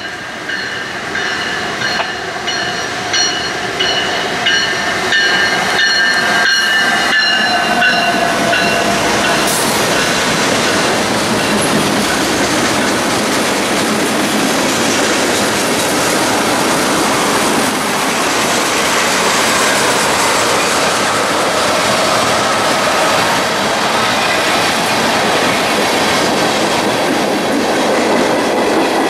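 Freight train of tank cars rolling past close by: a steady rumble of wheels on rail with clicking over rail joints. Several high steady tones ring over it during roughly the first eight seconds, sagging slightly in pitch before they fade.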